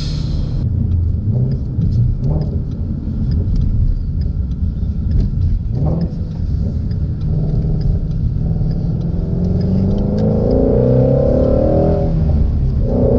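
2016 Shelby GT350's flat-plane-crank V8 rumbling steadily, then revving up under acceleration from about seven seconds in, its pitch climbing, dipping briefly near the end and climbing again.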